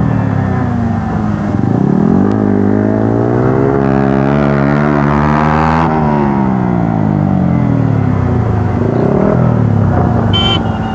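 Motorcycle engine running under load on a ride, its pitch climbing steadily for a few seconds, dropping sharply about six seconds in, then falling away slowly.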